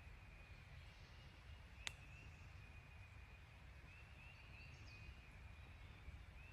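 Faint outdoor ambience: a low rumble under a steady run of faint, distant chirping. There is one sharp click about two seconds in, and a few higher chirps about three-quarters of the way through.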